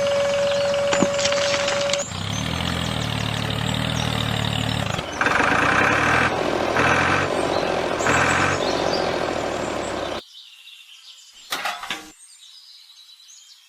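A vehicle engine running, in abruptly edited segments. First a steady hum with a held tone, then a lower engine note, then three loud surges about a second apart. It cuts off suddenly about ten seconds in, leaving a faint background with a couple of short sharp sounds.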